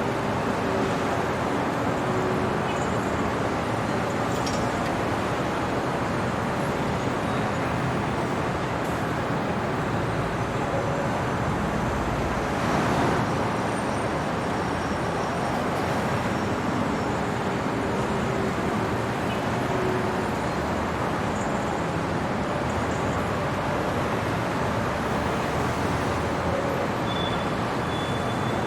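Steady night-time city traffic noise: an even wash of road and vehicle sound, with a brief swell about halfway through as a vehicle passes closer.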